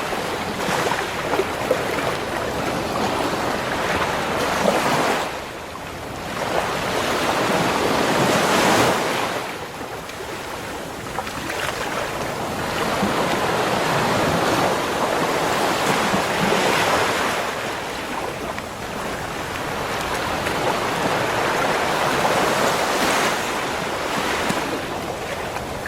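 Ocean waves breaking on a beach shore, the surf swelling and easing every few seconds.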